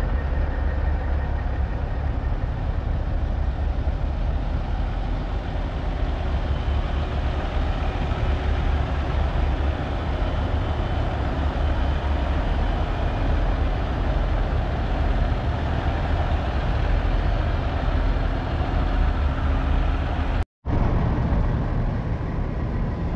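Steady low rumble of heavy truck diesel engines running, with a momentary dropout to silence about twenty seconds in.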